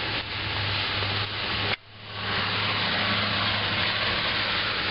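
Rushing flood runoff water, a steady noisy wash with a low hum underneath; the sound drops out sharply for a moment about two seconds in, then builds back up.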